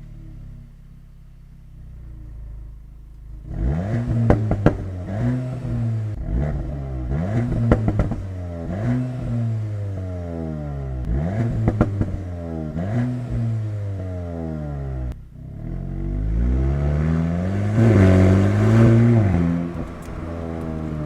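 VW Golf 8 GTI Clubsport's turbocharged 2.0-litre four-cylinder through an Akrapovic exhaust, at a low idle at first, then revved up and back down over and over from about three seconds in, with sharp crackles and pops among the revs. The loudest rev comes near the end.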